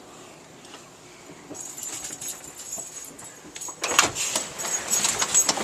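Metal jingling with rustling and a quick run of sharp knocks and clicks, louder from about four seconds in.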